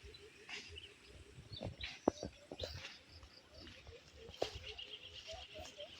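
Outdoor wildlife calls: a short low note repeated about four times a second, birds chirping, and a fast high trill about four seconds in. A sharp click sounds about two seconds in.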